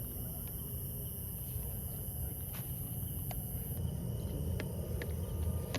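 Night insects trilling steadily, a high buzz that cuts off suddenly about two thirds of the way in, over a low rumble, with a few sharp clicks in the second half.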